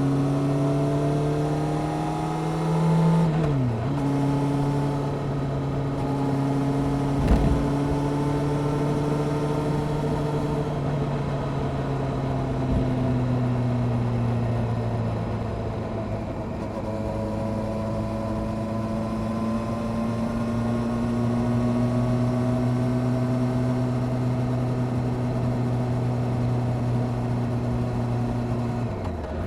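Honda CBR600F Sport inline-four motorcycle engine with an aftermarket Delkevic exhaust, heard under way with wind rush. The revs climb and then drop at an upshift about three seconds in, hold steady, sag a little, and climb slowly to another upshift near the end. There is a short thump about seven seconds in.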